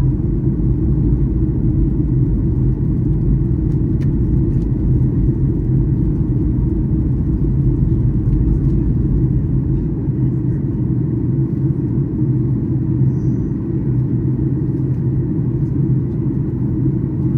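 Steady low rumble of a Boeing 737-800's engines and airflow heard inside the passenger cabin.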